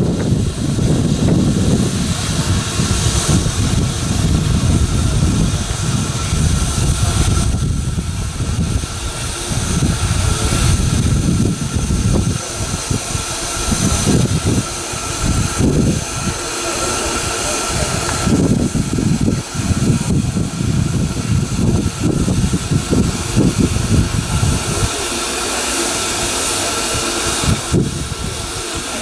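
Narrow-gauge railway train running: a steady, uneven rumble with a constant hiss over it.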